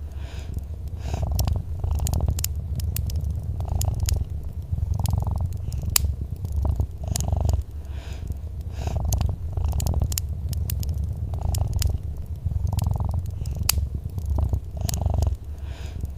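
Domestic cat purring close up, a continuous low rumble that swells and eases with each breath every second or two, over a wood fire crackling with scattered sharp pops.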